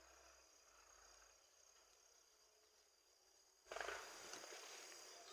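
Faint, steady high-pitched chirring of insects in the background. A few seconds in, a louder rustling noise joins it.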